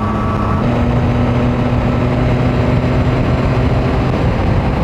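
Yamaha Tracer 9's CP3 three-cylinder engine running at a steady cruise under wind rush, its note stepping up slightly about half a second in.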